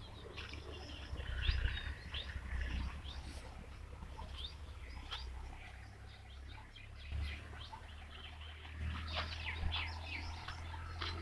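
Small birds chirping, many short high calls scattered all through, over a low steady rumble.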